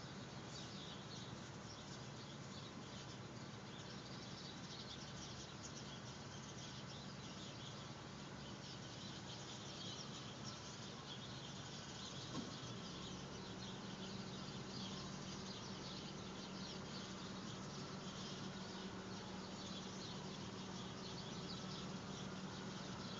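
Many small birds chirping at once, a dense run of quick high chirps over a steady low hum.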